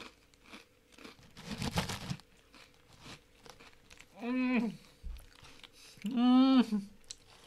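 A person crunching and chewing a tortilla chip (a wasabi-flavoured Dorito), then making two drawn-out closed-mouth "mmm" hums while chewing, the second longer and louder.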